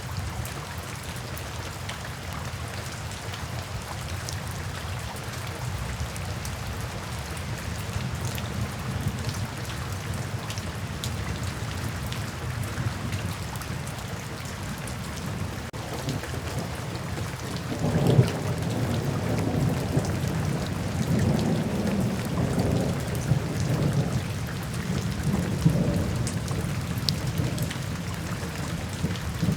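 Steady rain falling, with a roll of soft thunder rumbling in about two-thirds of the way through and lingering to near the end.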